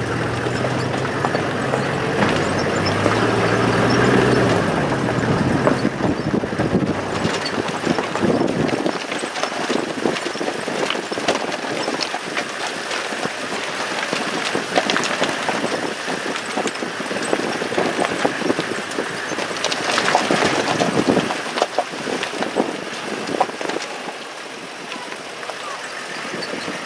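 A motor vehicle travelling: a low engine hum for the first several seconds, then steady road noise with many small rattles and knocks.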